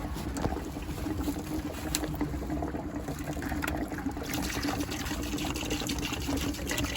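Vinegar pouring steadily into a bucket, filling it for a tankless water heater descale.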